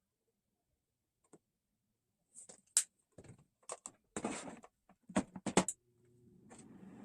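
A series of sharp clicks and knocks, as of objects being handled, ending about six seconds in; a steady hiss then comes up near the end.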